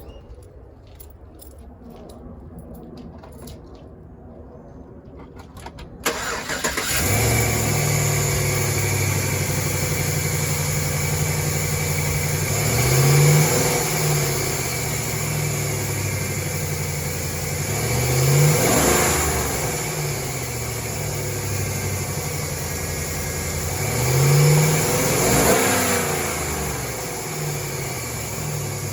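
A 2018 Chevrolet Silverado 2500 pickup's V8 engine starts about six seconds in after a few faint clicks, then idles steadily. It is revved briefly three times, each time rising and dropping back to idle.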